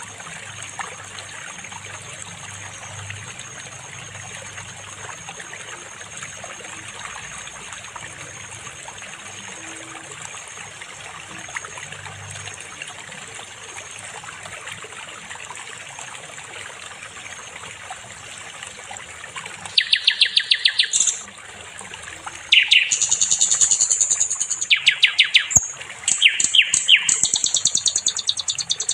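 A steady hiss of running water or ambient background. About two-thirds of the way in, a songbird breaks into loud, rapid chattering phrases of quickly repeated high notes, pausing briefly and then singing on.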